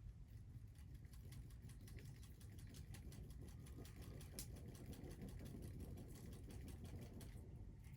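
Wood fire crackling, with many small irregular pops over a low rumble.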